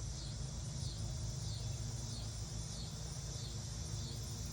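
Insects chirring steadily in a high, pulsing pattern about every two-thirds of a second, over a low steady hum.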